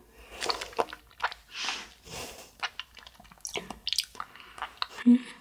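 Biting into and chewing a soft, firm gummy jelly candy: a run of wet, squishy bites and chews with sharp little clicks between them. A short low hum comes near the end.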